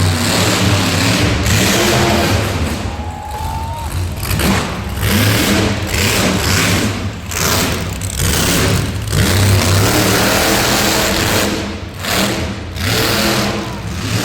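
Monster truck engine revving hard, the revs rising and falling several times.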